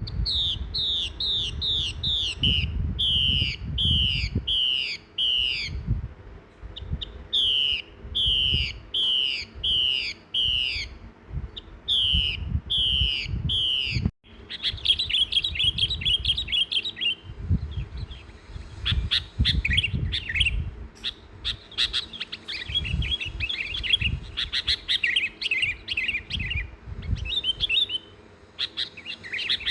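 A songbird repeating a clear downslurred whistled note, about two a second in runs of five or six. About halfway through, it cuts abruptly to a busier, irregular twittering of quick chirps. A low rumble runs underneath.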